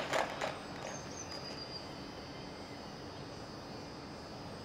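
Faint outdoor hush with a small bird singing once: two quick high chirps and then a short trill, about a second in. A few last clicks of a skateboard fade out in the first half second.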